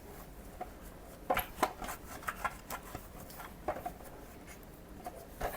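Faint handling sounds: a few light clicks and taps with soft rubbing, scattered and irregular.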